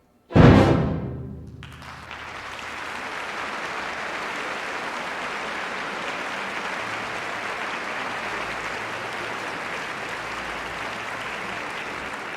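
A full orchestra's closing chord is struck hard a moment in and dies away within about a second. The audience then breaks into steady applause, which carries on and begins to fade near the end.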